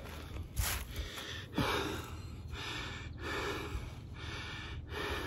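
A man breathing hard and fast, panting in quick even breaths, winded from heavy demolition work. A short knock or two comes near the start.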